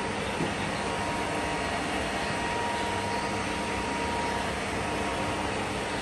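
Metal lathe running steadily: a constant machine hum and noise with a faint steady whine.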